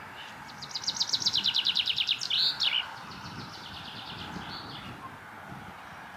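A songbird singing: a fast, loud trill of about a dozen quick high notes ending in a short slurred flourish, followed by fainter, softer notes, over a steady outdoor hiss.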